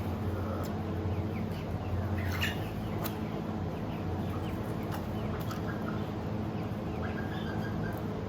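Faint, short squeaky calls from newborn goat kids over a steady low hum, with a few light clicks.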